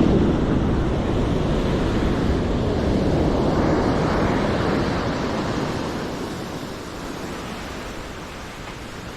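Ocean surf breaking and washing up the beach, with wind on the microphone. The wash swells about three to four seconds in, then eases off toward the end.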